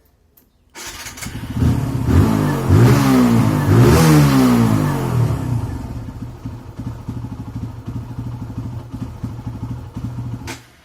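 TVS Apache RTR 2V motorcycle's single-cylinder engine starts about a second in, is revved up and down twice, then idles unevenly and cuts out suddenly near the end. The engine switching itself off is the fault the owner complains of.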